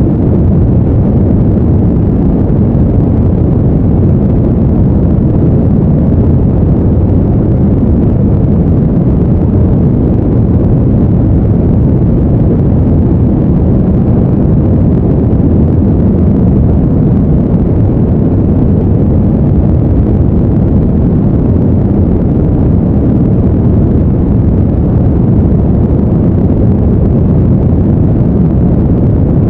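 A steady, deep rumbling noise that does not change, with no tones or breaks: a brown-noise sleep bed.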